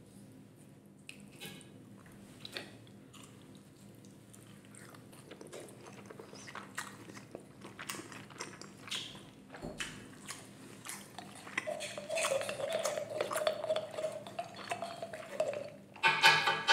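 Close-miked wet chewing of ribeye steak with small mouth clicks and a wooden spoon tapping the slate, with a steady tone held for about four seconds in the middle. Near the end a squeeze bottle of mayonnaise sputters loudly as it squirts out.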